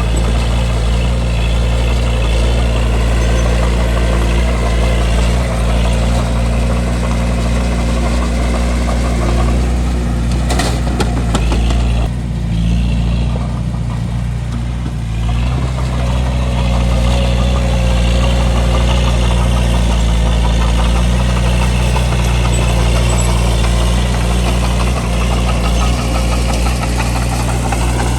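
Bulldozer diesel engine running steadily under work. About ten seconds in there is a single clank, and soon after the engine eases off for a few seconds before picking up again.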